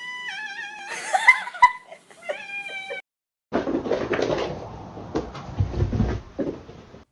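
A cat meowing in long, wavering meows for about three seconds. Then, after a short gap, a few seconds of rustling and low thumps.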